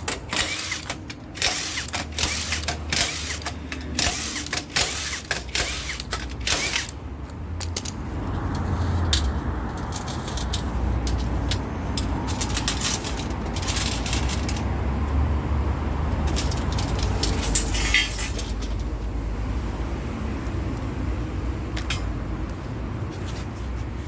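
A run of clicks and rattles, then a steady low rumble like a running vehicle, with a few scattered clicks.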